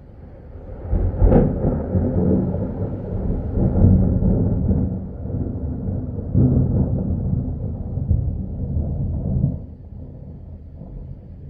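Thunder: a sharp crack about a second in, followed by a long, low rolling rumble that swells again midway and fades out about two seconds before the end.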